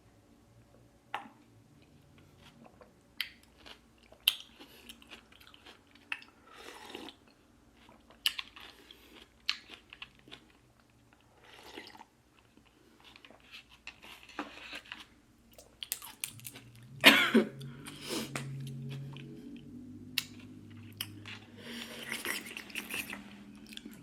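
A person chewing food close to the microphone, with scattered crunches and wet mouth clicks and one louder burst about seventeen seconds in.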